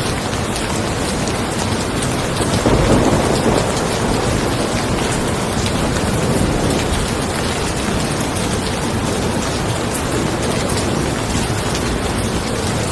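Steady rain pattering on a car, with a roll of thunder rumbling about two and a half seconds in and fading over the next few seconds.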